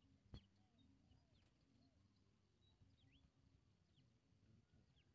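Near silence with faint, scattered short chirping calls of birds in the distance, and one light knock about half a second in.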